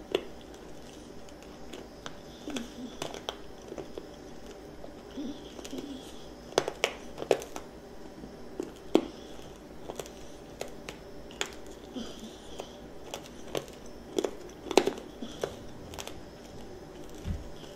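A child chewing a candied strawberry with its mouth close to the microphone: the sugar coating crackles and crunches in scattered sharp clicks between softer, wetter chewing.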